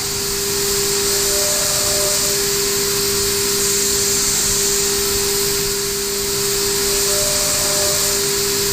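Okuma GENOS M660-V vertical machining center cutting a die and mold part: a steady spindle whine at one pitch over a constant hiss.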